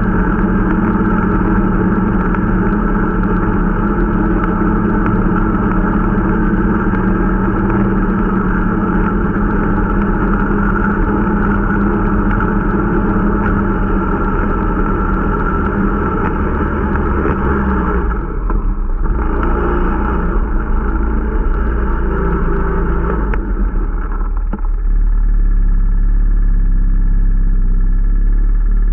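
Irbis Dingo T125 snowmobile's small 125 cc four-stroke engine running at steady speed during its break-in ride. The engine note drops about two-thirds of the way through, and a lower, rougher rumble takes over near the end.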